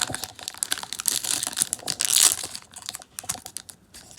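Pokémon trading cards being handled and shuffled: a quick run of clicks and rustles, loudest and busiest about one to two seconds in, then sparser.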